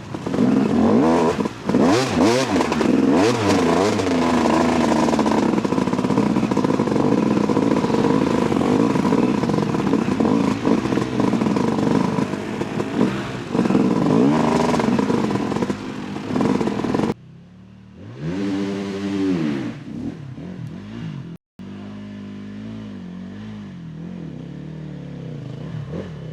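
A 2008 Yamaha YZ250 two-stroke dirt bike engine revs hard and unevenly through mud, its pitch rising and falling with the throttle. About two-thirds of the way in the sound drops off suddenly. A short rev up and down follows, then a quieter engine running.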